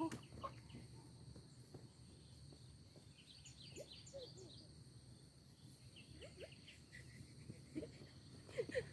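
Quiet rural ambience with faint, scattered bird chirps.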